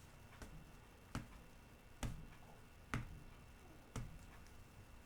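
Five light, sharp clicks or taps, roughly one a second, over a faint low hum.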